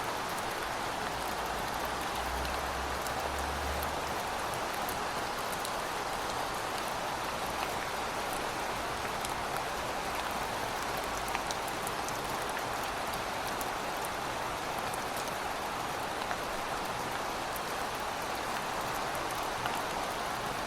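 Heavy rain falling steadily: a dense, even hiss sprinkled with sharp drop ticks, with a brief low rumble about two seconds in.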